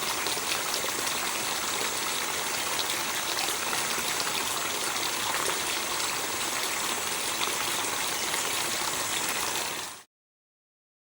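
Steady rushing of running water, an even hiss that cuts off abruptly about ten seconds in.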